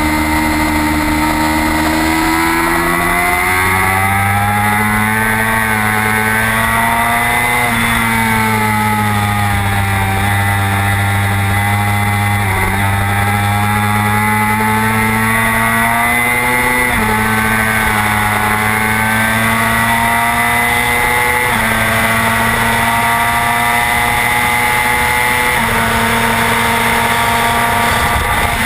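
Race-prepared superbike engine at high revs, heard from the bike's onboard camera. The engine note rises and falls with the throttle and jumps abruptly several times at gear changes, over a steady rush of wind noise.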